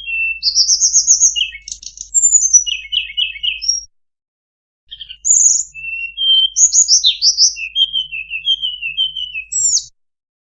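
Bird-lure recording of a tledekan (blue flycatcher) singing: quick, varied high warbles and trilled phrases. The song stops dead for about a second some four seconds in, then resumes.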